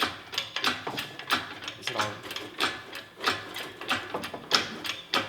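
A ratchet clicking in quick repeated strokes, a few sharp clicks a second, as parts are worked loose or cranked.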